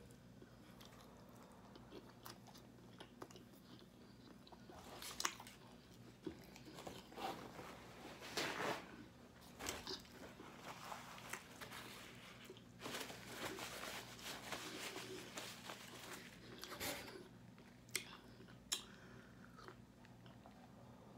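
Close-up eating of roasted chicken wings: irregular chewing and biting noises with sharp clicks, coming in louder stretches through the middle.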